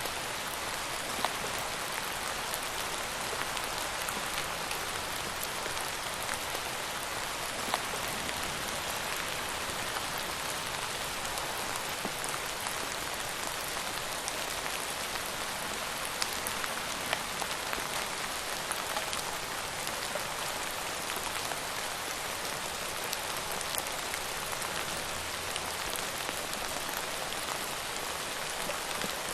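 Steady rain falling on a surface, an even hiss with scattered distinct drop ticks, a few louder ones about a second in and near eight seconds.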